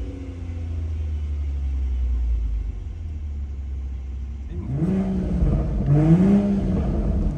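BMW M140i's B58 turbocharged inline-six exhaust idling with a steady low rumble, then blipped twice in free revs, pitch rising and falling each time, about five and six seconds in.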